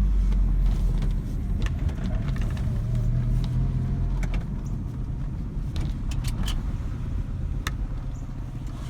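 Saab 900 Commemorative Edition's turbocharged four-cylinder engine running at low speed, heard from inside the cabin with road noise, gradually getting quieter as the car slows. There are a few light clicks and rattles along the way.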